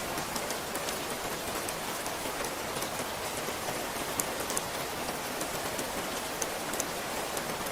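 Steady rain falling, an even hiss with scattered sharp ticks of individual drops hitting close by.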